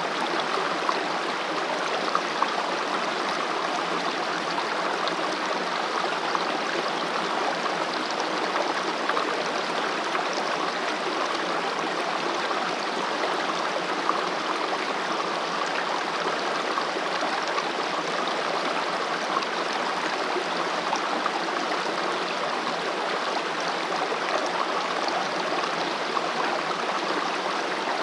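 Mountain stream running over rocks: a steady, even rush of flowing water with a constant babble.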